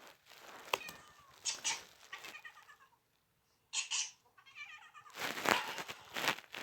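A cat meowing several times in drawn-out, wavering calls, with a short quiet gap partway through.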